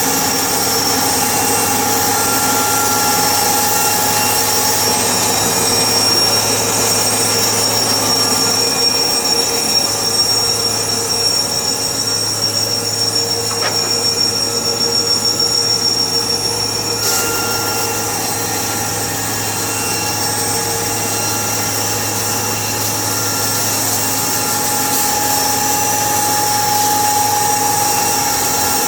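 Sawmill machinery running steadily: an engine-driven drone with a held high whine, which fades for a stretch through the middle and comes back about two-thirds of the way through.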